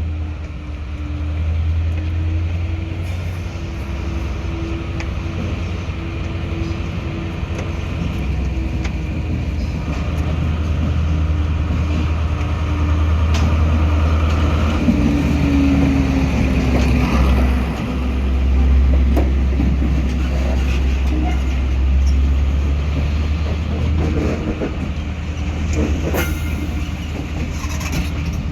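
A train running, with a steady deep drone and a steady tone that dips in pitch about halfway through, joined by intermittent clatter and clicks in the second half.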